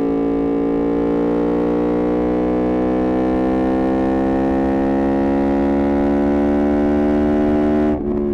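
Yamaha MT-10's 998 cc crossplane inline-four through an Austin Racing exhaust, pulling under load, its note rising slowly and steadily. Near the end there is a brief break and a slight drop in pitch before it climbs again.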